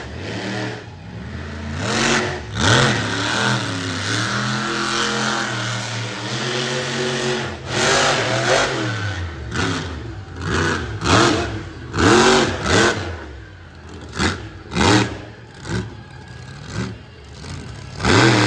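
Monster truck engine revving hard in repeated bursts, its pitch climbing and falling with each stab of the throttle, with a sustained run at steady high revs around the middle.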